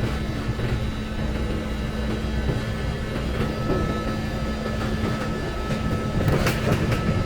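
Commuter train running, heard from inside the passenger car: a steady rumble with a constant hum, and a short cluster of sharp clicks and rattles about six seconds in.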